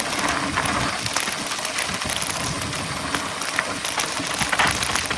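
Mountain bike being ridden over a trail: tyres rolling and the bike rattling over rough ground, with a steady run of small knocks and clicks.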